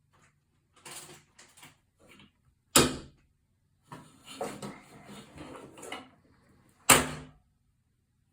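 Two loud, sharp knocks about four seconds apart, with quieter rustling and clattering between them, like objects being handled and banged down.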